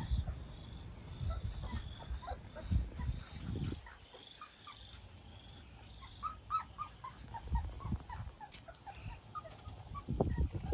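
Young Labrador puppies whimpering with short, high squeaks, several in quick succession past the middle.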